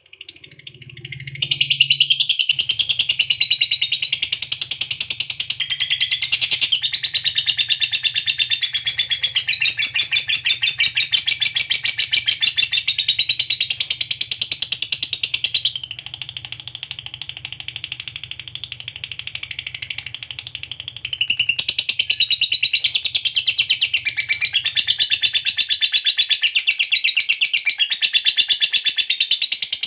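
Lovebird giving a long, unbroken ngekek: a rapid, high-pitched chattering trill that wavers up and down in pitch. It starts about a second and a half in, drops quieter for several seconds in the middle, then comes back strong. This long trill is the prized song of a lovebird in full voice (gacor).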